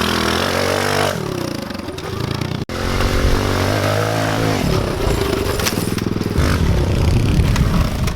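Kawasaki KLX110 pit bike's small single-cylinder four-stroke engine revving, its pitch rising and falling again and again, with a brief break in the sound about two and a half seconds in.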